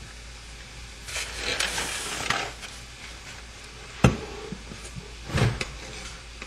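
Indoor handling noises: a rustle, then a sharp knock about four seconds in and a duller thump a second or so later.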